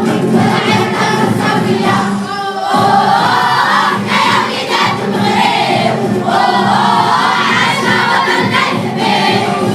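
A vocal group singing a nasheed together, many voices at once.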